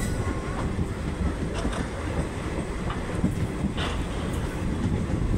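Passenger train running on the track, heard from aboard the coach: a steady low rumble of wheels on rail, with a few sharp clicks from the wheels.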